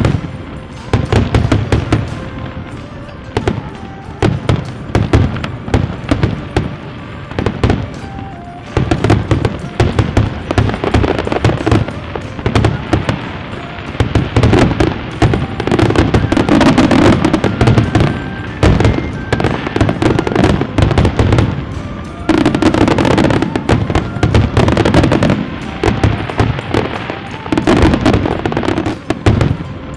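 Fireworks going off in a dense, near-continuous barrage of rapid cracks and bangs that surge in loud waves every few seconds.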